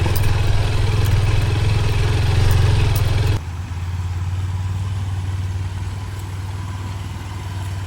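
Honda XR150L's single-cylinder engine running at low, steady revs. The rushing noise over it cuts off suddenly a little over three seconds in, leaving the engine note alone.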